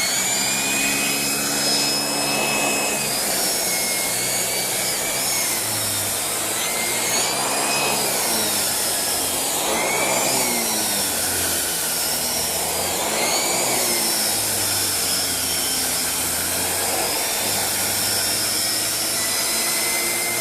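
Shark Rotator Speed Lift-Away upright vacuum running with its mini turbo pet brush, whose air-driven turbine spins a belt-driven brush roll. It gives a steady rush of suction with a high whine that dips and rises again and again as the brush is pushed over upholstery.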